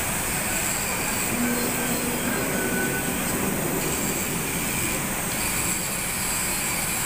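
Steady, continuous noise of shipyard work machinery, with a few faint humming tones coming and going.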